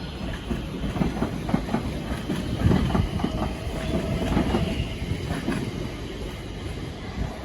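Class 710 electric multiple unit pulling out of the station, its wheels clattering over rail joints. The rumble and clatter peak a little before halfway, then slowly ease off as the train draws away.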